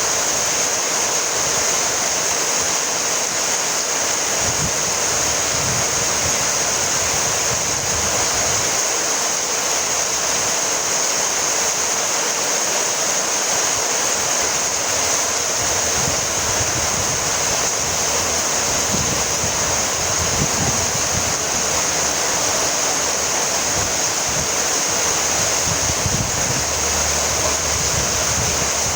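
Steady, even rainfall, a continuous hiss of rain without letup.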